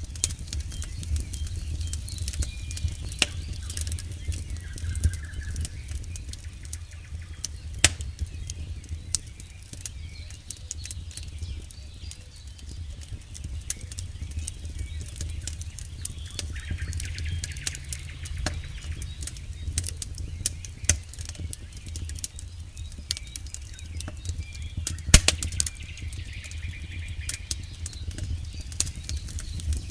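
Campfire burning with a steady low rumble and constant crackling of burning wood, with sharp pops about 8 seconds in and, loudest, about 25 seconds in.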